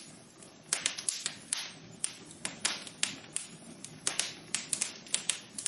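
Wood fire in a fireplace crackling: irregular sharp pops and snaps, several a second, over a soft low hiss of burning.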